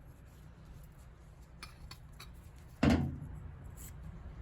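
A few light metal clicks and clinks as a brass boiler fitting is handled, then one loud knock about three seconds in that rings briefly.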